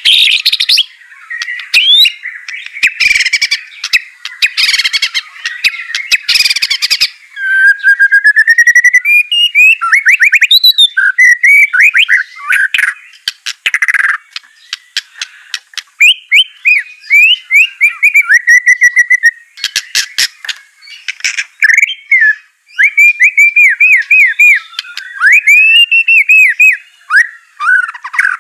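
White-rumped shama singing a fast, varied song of clear whistled phrases and trills, with harsh buzzy notes in the first several seconds.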